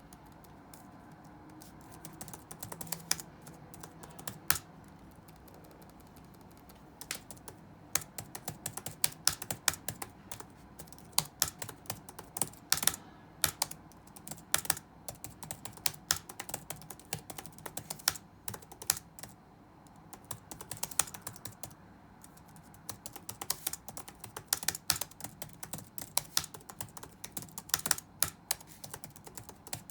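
Computer keyboard typing: a few scattered keystrokes for the first several seconds, then quick runs of keystrokes broken by short pauses.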